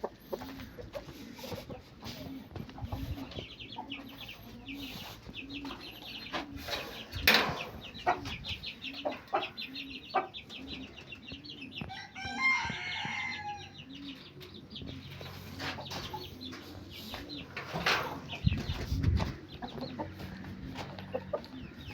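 Aseel chickens clucking: a low, even cluck repeating about twice a second, with scattered sharp clicks. About twelve seconds in comes one longer, higher call of about two seconds.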